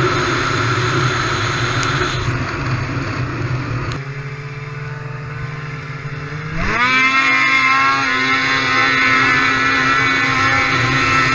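700cc twin-cylinder two-stroke snowmobile engine running loud, settling to a lower, steadier note about four seconds in. Just before seven seconds it revs sharply up to high rpm and holds there at full throttle, as in a drag-race launch.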